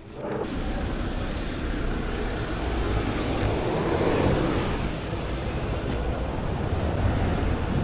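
Steady wind noise on the microphone and road noise while riding an e-bike. It starts abruptly at the beginning and builds slightly.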